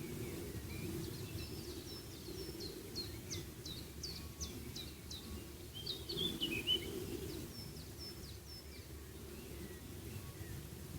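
Small songbirds chirping: a run of short, high notes that slide downward, two or three a second, with a brief burst of twittering about six seconds in. A steady low background rumble runs beneath.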